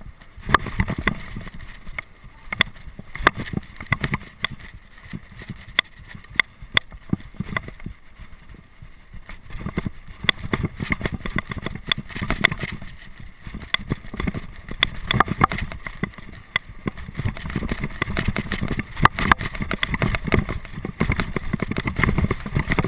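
Wind rumbling on the microphone with many irregular sharp clicks and knocks, like rattling over rough ground at speed; no engine tone is heard.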